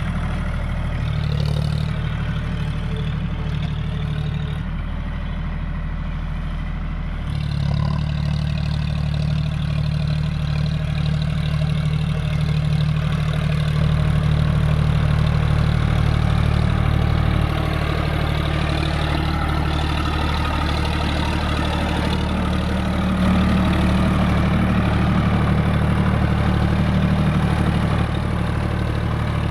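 John Deere 5050D tractor's diesel engine running steadily. Its note drops for a couple of seconds about five seconds in, then picks up again and stays strong.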